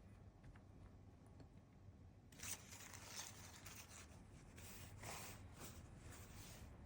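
Faint paper rustling and scraping, starting about two seconds in as a run of short, irregular strokes.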